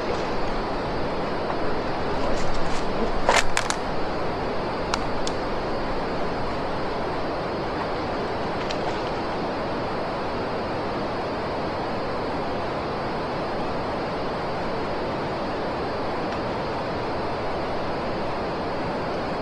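Steady rush of river water flowing. About two to four seconds in, a few short sharp clicks and one brighter splash-like burst stand out from it.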